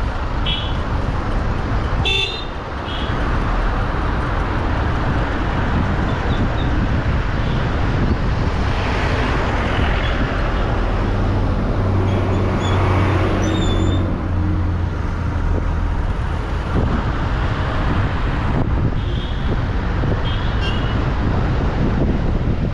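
Car driving on a road amid traffic: steady road and engine noise, with short horn toots near the start and again near the end. A low engine drone swells in the middle.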